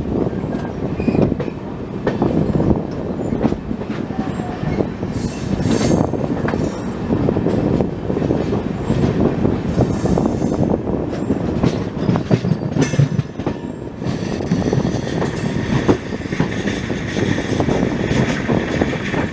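Passenger train running along the track, heard from on board the coach: a steady rumble of wheels on rail with clicks and several brief high squeals from the wheels.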